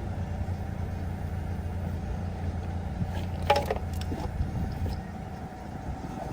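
Car engine idling steadily, with a brief squeak or clink about three and a half seconds in.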